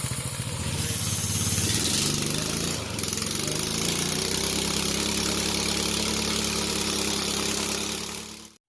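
Mini bike's small engine running, its speed changing a couple of times, then cut off suddenly near the end.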